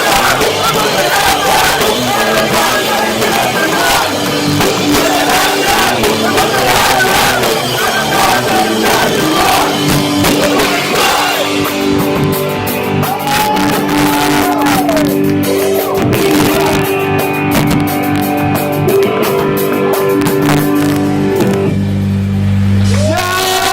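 Live hardcore band playing loud distorted guitars, drums and shouted vocals, heard through a cheap cell phone's microphone in a hall. About halfway through the cymbals thin out and the band holds long notes, ending on a low held chord near the end.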